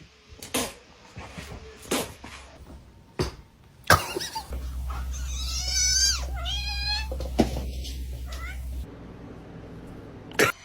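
A cat meowing twice, two drawn-out calls about halfway in, with a few scattered knocks before and after.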